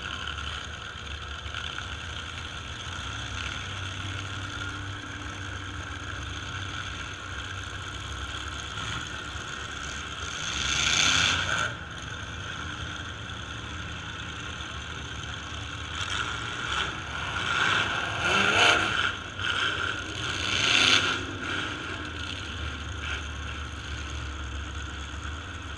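Demolition derby trucks' engines running in the background, with engines revved in louder surges about ten seconds in and several times in the latter half.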